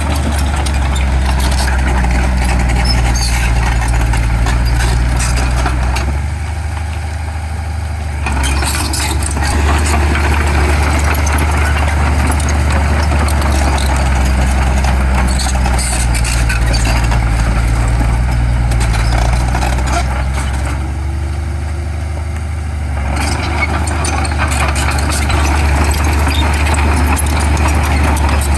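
Heavy diesel engine of earthmoving machinery running steadily under work, with clattering noise over the low engine note; twice it eases off briefly, for about two seconds each time.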